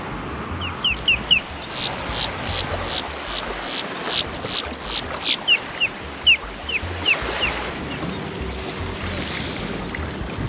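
A bird calling again and again in short, high, falling chirps, stopping about three quarters of the way through, over a steady rush of wind and surf.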